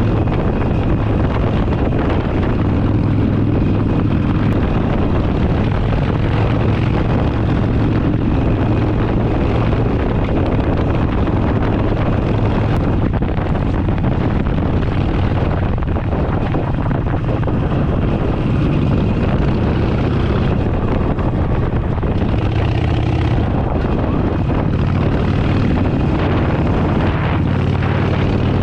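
Harley-Davidson Forty-Eight's air-cooled V-twin engine running steadily under way, a continuous low drone.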